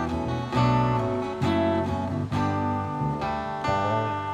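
A band's song in an instrumental passage between vocal lines: strummed acoustic guitar chords, changing every second or so.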